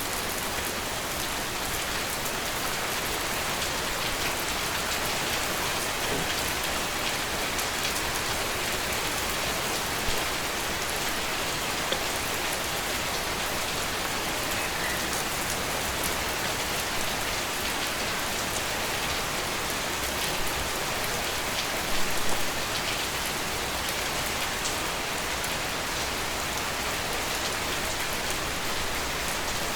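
Steady rain falling, a dense even hiss with individual drops pattering on a surface and a few slightly louder drop splashes about two-thirds of the way through.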